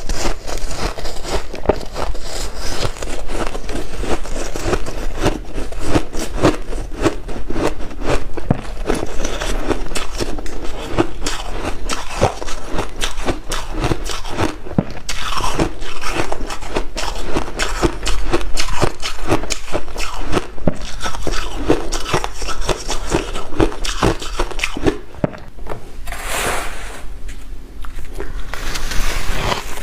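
Close-up chewing and crunching of white ice: a dense, continuous run of crisp cracks and crunches, with a short grainy hiss near the end.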